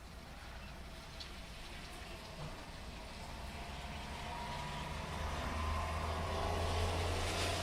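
Steady rain falling with scattered drips, while a car approaches and passes: its low engine hum and tyre noise grow louder from about halfway through and are loudest near the end.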